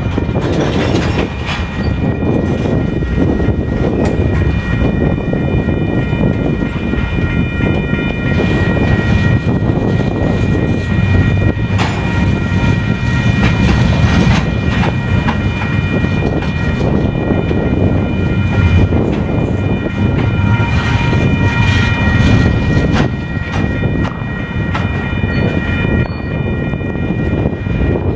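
Freight cars (tank cars, then flatcars loaded with pipe) rolling slowly through a grade crossing, with a steady rumble of wheels on rail and occasional sharp clacks. Over it the crossing's electronic bells ring steadily.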